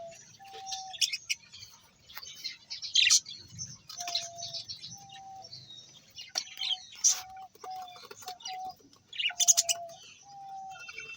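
Birds chirping and tweeting in many short, sharp high calls, with a recurring pair of short, steady lower notes through the chirping.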